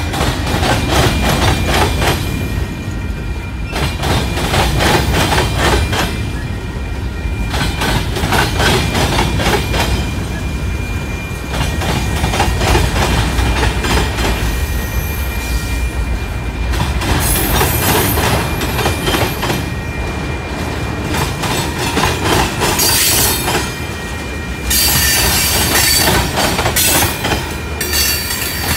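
Covered hopper cars of a long freight train rolling past close by. The wheels clatter steadily over the rail joints with a deep rumble, and a thin steady squeal from the wheels rides on top. The sound gets brighter and hissier in the second half.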